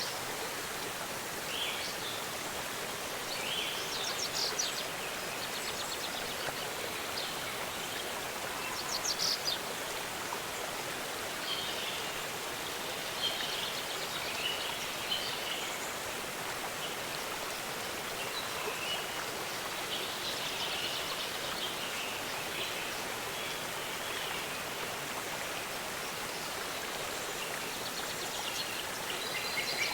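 Waterfall rushing steadily, with small birds chirping in short bursts every few seconds over it.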